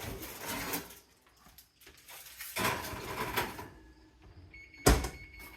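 Oven door and a pan of drying sea salt being handled: scraping and rattling twice as the pan goes in, then the oven door shut with a sharp bang near the end.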